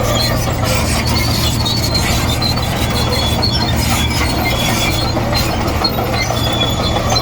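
Komatsu D58E crawler bulldozer's diesel engine running steadily, with high squeals and clinks from its steel tracks.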